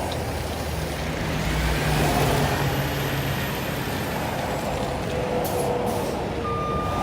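Heavy truck engines and road traffic running steadily, swelling about two seconds in. A truck's reversing beeper starts near the end.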